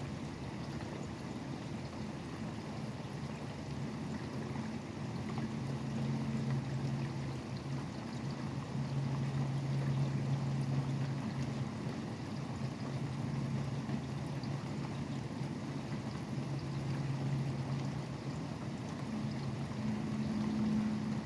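Steady rain falling, with the low drone of highway traffic swelling and fading underneath.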